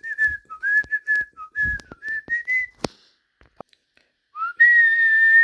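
A person whistling a short tune of quick notes. After a pause of about two seconds comes one long, steady held note.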